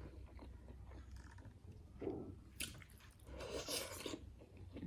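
Close-up chewing and mouth sounds of a person eating, with a few louder crunchy bites about two to four seconds in.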